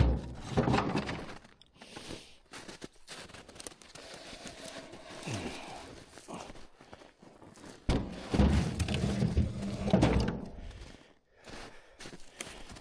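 Dull heavy thuds and knocks: one cluster right at the start and a longer run of them from about eight to ten and a half seconds in, with quieter handling noise between.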